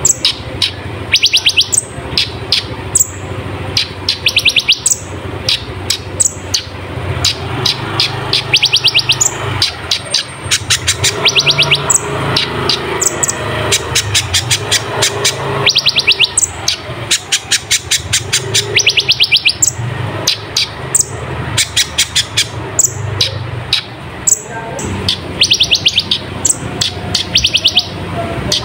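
Kolibri ninja (konin), a small sunbird, singing hard and without pause: rapid high-pitched twittering trills of fast ticking notes, repeated every second or two. A steady low hum runs underneath.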